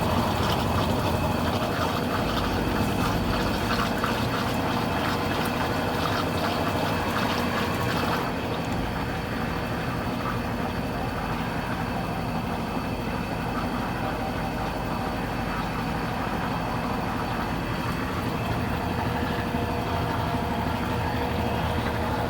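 Consul Cargo 8 kg washing machine running with water rushing through it. The hiss lessens about eight seconds in, and the machine keeps running steadily after that.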